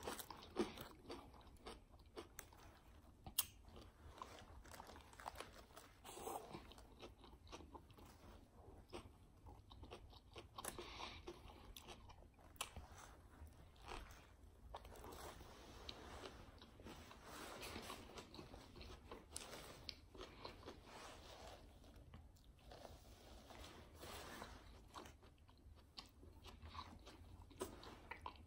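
Faint close-up eating sounds: a person biting into and chewing a sub sandwich, with many short, scattered crunches and mouth clicks.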